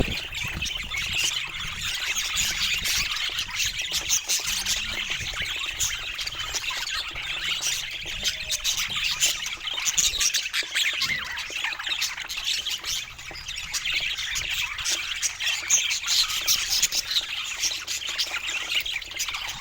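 A flock of budgies chattering, with continuous overlapping chirps and squawks.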